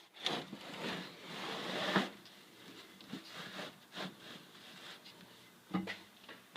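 Rubbing and rustling handling noise with a few light knocks and clicks while a tractor's hood latch and panels are being worked by hand; the engine is not running.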